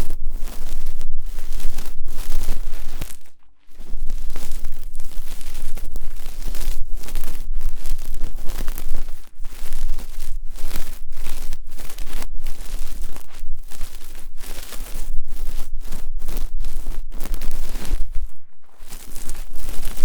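Close-miked ASMR ear cleaning: loud scratching and rustling of an ear-cleaning tool worked against the microphone, in dense strokes with brief breaks and a short pause about three seconds in and again near the end.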